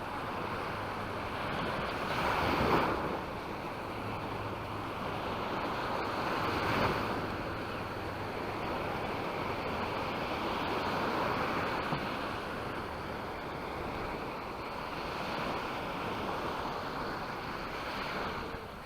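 Small sea waves breaking and washing up the beach, the surf swelling every four seconds or so.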